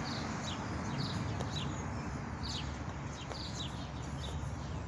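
Small birds chirping: short, high, downward-sweeping chirps, several a second and unevenly spaced, over a steady low background hum.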